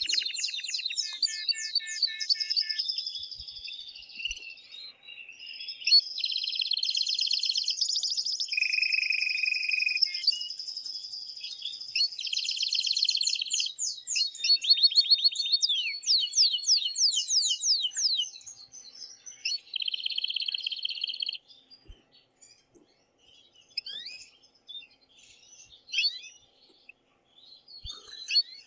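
Male canary in loud full song: fast rolling trills and rapid chirping phrases, one after another. About 21 seconds in the song breaks off, leaving a few scattered short chirps. This is the excited courtship song a male sings to stimulate a female.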